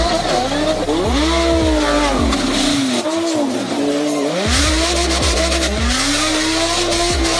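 Car engine revving hard, its pitch climbing and falling several times over, with a lull in the low rumble about three seconds in before it picks up again.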